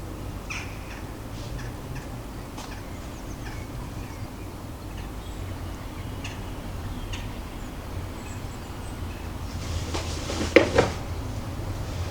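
Scattered short, faint calls of small garden birds over a low, steady rumble of distant city traffic; about ten and a half seconds in, two sharp, loud clatters close together.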